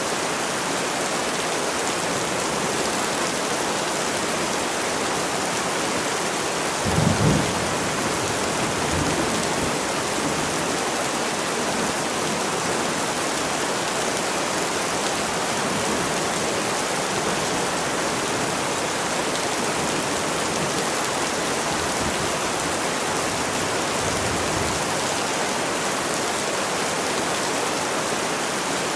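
Steady, heavy rain falling. A short, low rumble of thunder comes about seven seconds in, with fainter low swells later.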